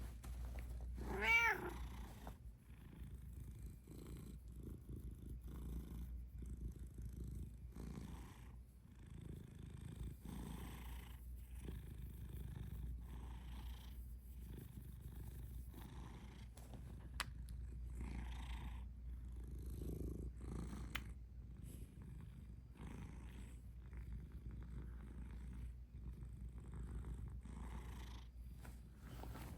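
Domestic cat purring steadily in a slow, rhythmic pulse, with a single short, high cat call about a second in, the loudest sound.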